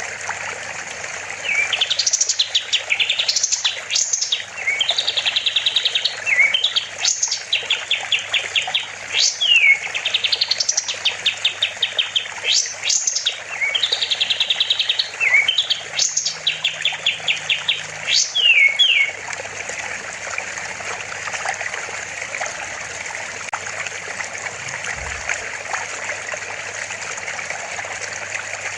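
A kapas tembak songbird singing loud, repeated phrases: sharp rising whistles followed by fast trills. It sings for about the first two-thirds and then falls silent. A steady rush of water runs underneath throughout.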